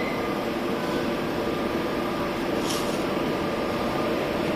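Animal tag molding machine running with a steady mechanical hum, and a brief hiss about two and a half seconds in.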